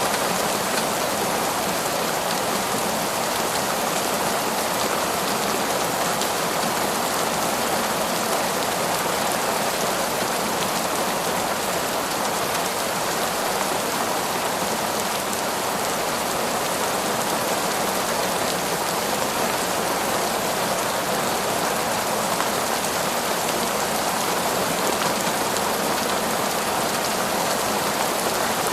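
Heavy, torrential rain falling in a forest, a dense and steady hiss of drops with no breaks.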